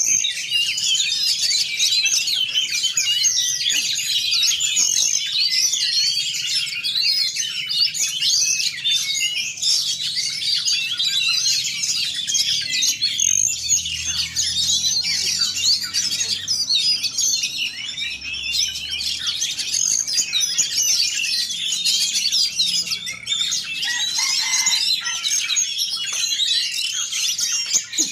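A dense chorus of many caged songbirds singing at once, a continuous overlapping mass of chirps and trills, as at an Indonesian bird-song contest with every hanging hook filled.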